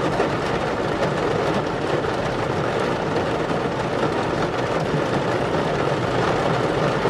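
Heavy rain drumming steadily on a roof during a downpour, a dense, even pattering.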